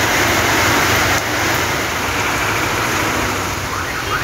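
Heavy rain falling steadily, an even hiss with a low rumble underneath. A faint warbling whistle comes in near the end.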